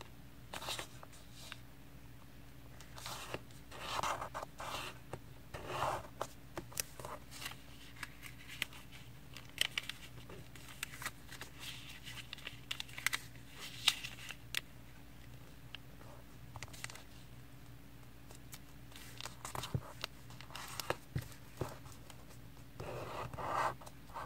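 A square sheet of paper being folded by hand: irregular rustles and short scraping sounds as the edges are brought to the center crease and the folds are pressed flat.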